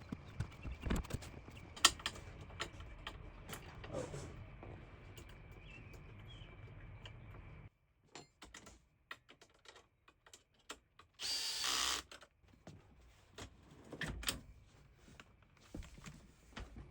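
Clicks and knocks of tools and metal parts being handled over a low hum that cuts off about eight seconds in. A power drill then runs for about a second, the loudest sound, followed by more scattered clicks.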